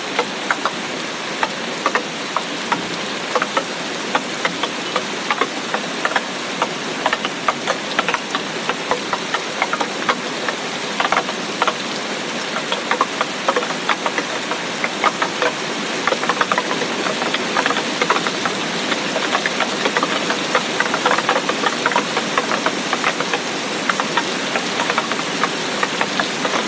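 Heavy tropical rain falling steadily, a dense hiss with many sharp, irregular drop hits close by.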